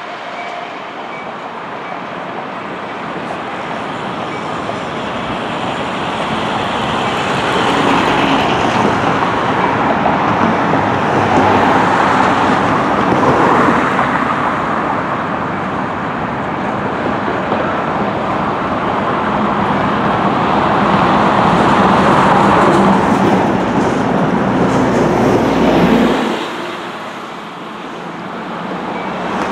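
Freight cars of a passing train, tank cars and covered hoppers, rolling past: a steady rumble and rush of steel wheels on rail that swells and eases. The sound dips briefly near the end.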